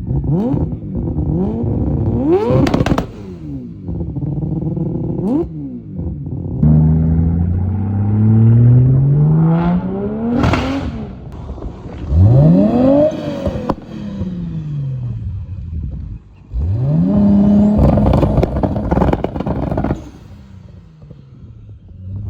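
Car engines revving hard, several times over: the pitch climbs and falls again in repeated sweeps, with sharp cracks and pops among the revs.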